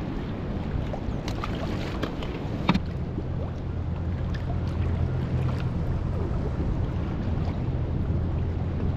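Wind rumbling on the microphone over choppy water sloshing around a small fishing craft, with a sharp knock about three seconds in. After the knock the low wind rumble grows steadier.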